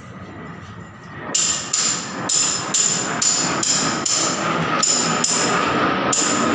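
Repeated sharp, ringing metallic strikes, like hammering on metal, mostly in pairs, starting about a second in and going on steadily over a faint steady tone.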